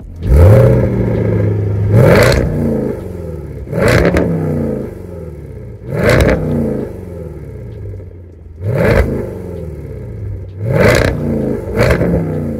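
Land Rover Defender 90 V8 with a Milltek non-resonated exhaust, firing up and settling to idle, then blipped repeatedly. The revs flare and fall back to idle about every two seconds, six times.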